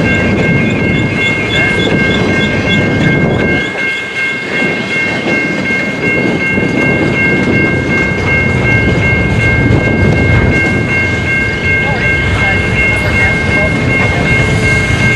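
Long CN intermodal freight train's cars rolling past at close range: a steady loud rumble of wheels on rail, with a steady high-pitched whine held throughout.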